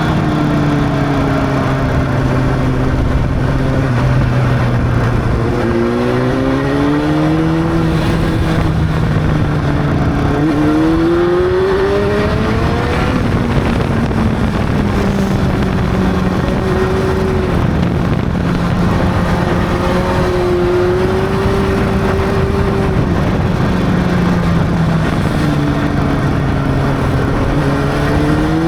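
Honda CB600's inline-four engine running under way, its pitch climbing several times as the bike pulls through the revs and levelling off in between.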